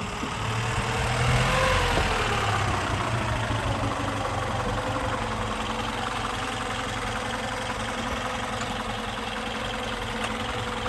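1925 Vauxhall 14/40's 2.3-litre four-cylinder engine running, its pitch and loudness rising and falling briefly about two seconds in, then running steadily.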